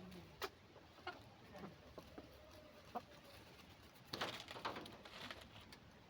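Brahma chickens clucking softly, with scattered short clicks and a louder noisy burst about four seconds in.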